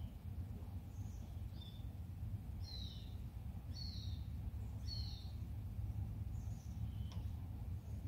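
A bird giving short, high, falling chirps, about one a second, over a steady low rumble.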